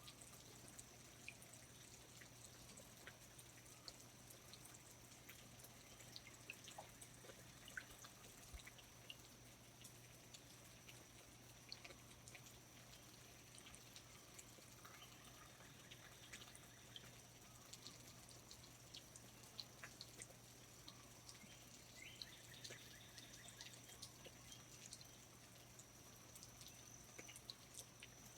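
Faint rainforest ambience: scattered water drops dripping and pattering irregularly, over a steady thin high-pitched whine.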